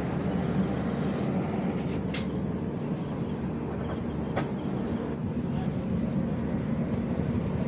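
Passenger train pulling slowly out of a station: a steady low rumble from the moving coach, with a couple of sharp clicks. A steady high insect chirr carries over it.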